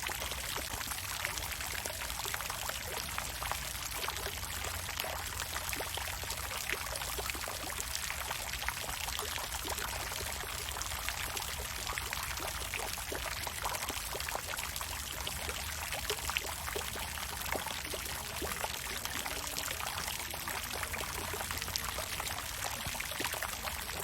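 Water fountain running: a steady splash and pour of falling water, full of small droplet splashes, over a low steady rumble.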